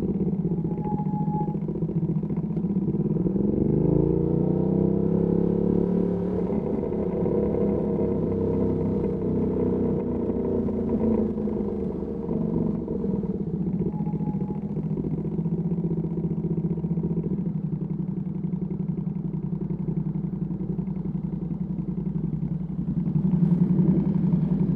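Ducati Panigale V2S V-twin with a Termignoni exhaust running under way. The revs climb about three seconds in, then hold fairly steady, and the engine gets louder again near the end.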